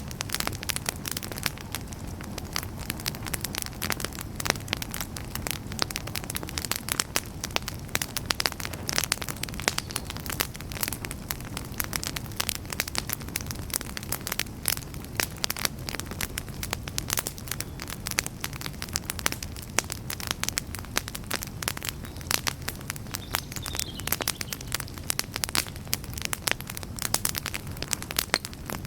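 Wood campfire burning, with dense, irregular crackles and pops over a steady low rumble of flame.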